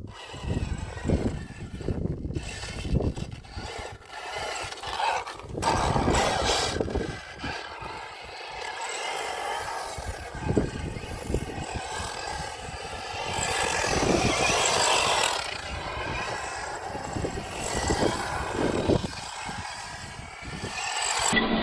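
Losi Baja Rey 1/10-scale electric RC trophy truck driving over rough dirt, its motor whining under changing throttle while tyres and suspension scrabble, scrape and knock on the ground.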